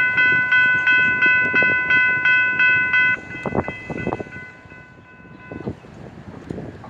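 Railroad grade-crossing bell ringing about three times a second, then stopping abruptly about three seconds in. Afterwards there is quieter street noise with a few short thumps.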